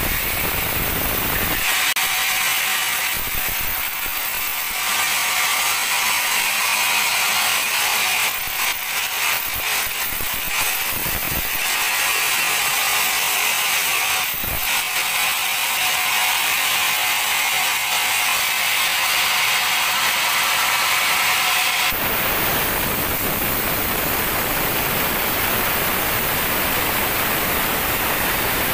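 Sawmill band saw cutting a teak log: a steady high-pitched hiss with a few short knocks around the middle. The saw's broader, lower running noise is heard briefly at the start and again for the last several seconds.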